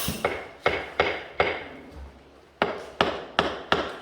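Hammer blows: a series of sharp, ringing strikes, about five in quick succession, a short pause, then four or five more.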